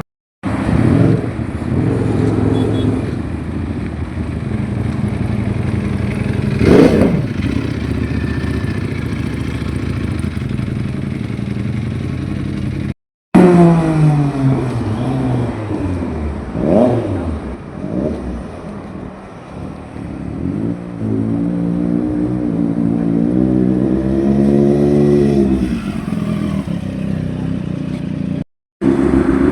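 Superbike engines being revved in short clips, one after another: sharp throttle blips about 7 and 17 seconds in, a rev falling away just after 13 seconds, and a long rise and fall of revs in the second half. Each clip is cut off abruptly.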